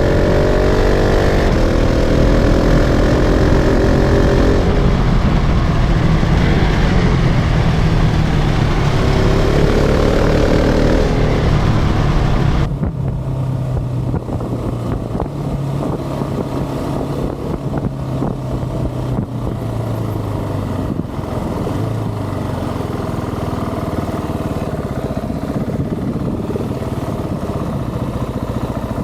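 KTM 690 SMC-R's single-cylinder engine accelerating hard through the gears, the pitch climbing and falling back at each shift. About halfway through the throttle closes sharply and the engine runs on quieter at lower revs.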